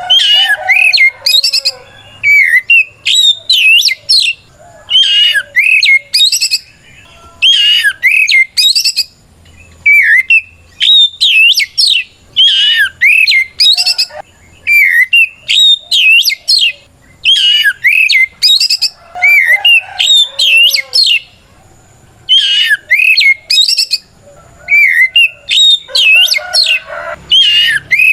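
Oriental magpie-robin (kacer) singing a loud challenge song of quick whistled notes and sweeping slurs, delivered in short bursts under a second long with brief pauses between them, phrase after phrase.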